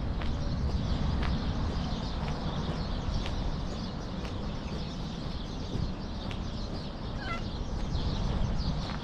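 Outdoor background noise with a steady low rumble and scattered sharp clicks, and a short bird chirp about seven seconds in.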